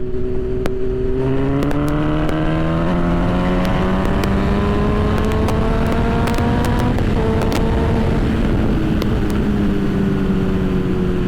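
Honda CB1000's inline-four engine pulling under throttle, its pitch climbing steadily for several seconds, then dropping with a gear change about seven seconds in and running on at a slowly falling pitch. Wind rush on the rider's microphone throughout.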